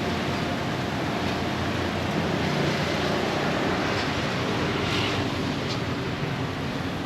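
Steady background din of a busy street market with a low traffic hum, and a few faint clicks about two-thirds of the way through.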